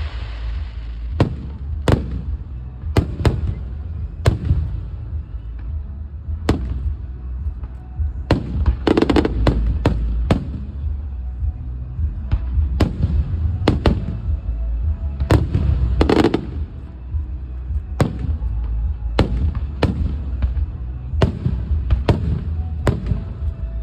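Aerial fireworks show: a long run of sharp shell bursts at irregular spacing, with dense crackling clusters about nine and sixteen seconds in, over a continuous low rumble.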